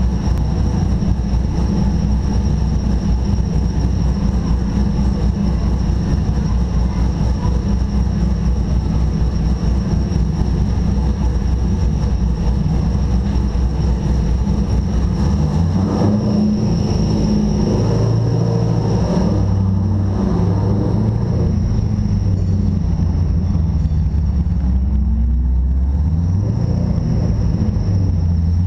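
Chevrolet Corvette C6's V8 engine idling steadily. From about halfway the engine note starts to shift, and near the end it rises as the car pulls away.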